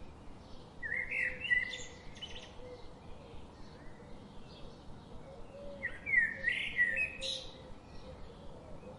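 Birdsong ambience: one bird sings two loud, quick warbling phrases, about a second in and again about six seconds in, while other birds chirp faintly in between over a steady background hiss.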